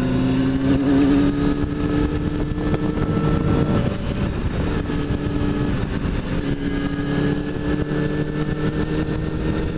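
Kawasaki ZX-6R's inline-four engine running at steady cruising revs while riding. About four seconds in the note eases off for a moment, then holds steady again.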